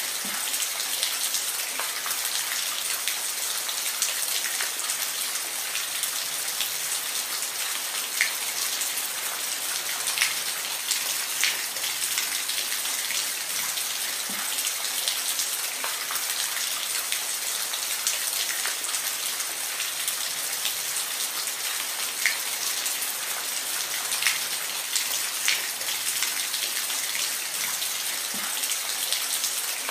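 Steady rain with a dense high hiss and scattered, distinct drops ticking on a surface.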